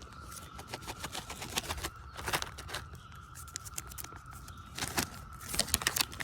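Scattered rustles, clicks and crinkles of close handling, busiest about two seconds in and again near the end, over the steady distant hum of a Brood X periodical cicada chorus.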